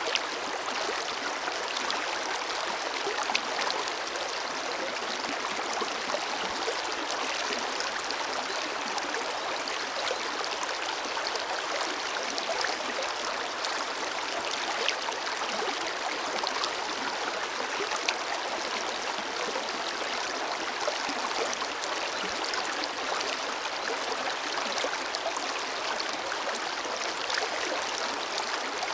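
Forest river flowing steadily, a constant rush of water with small splashes and trickles.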